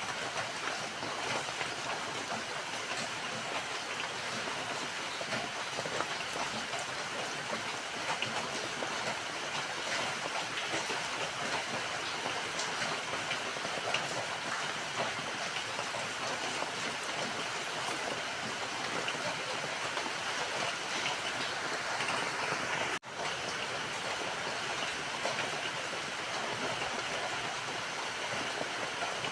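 Steady rain falling, an even hiss with the patter of single drops all through. It cuts out for an instant about three-quarters of the way through, then carries on as before.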